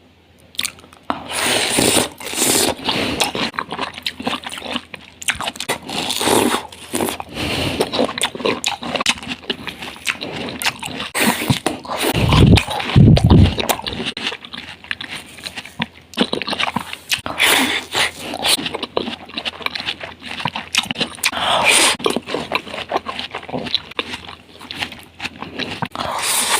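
Watermelon being bitten and chewed up close: many irregular bites and wet chewing sounds, starting about a second in.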